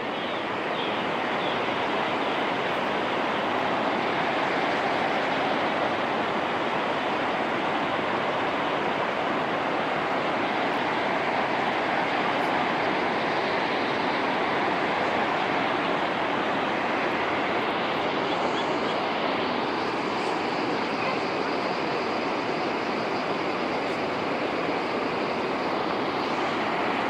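The Zambezi River plunging over Victoria Falls: a steady, unbroken rush of falling water.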